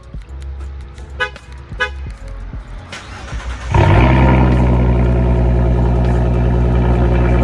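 Two short beeps, then about four seconds in a 2017 Ford Mustang's 3.7L V6 with an X-pipe and double muffler delete cranks, catches abruptly on a cold start and settles into a loud, steady high idle.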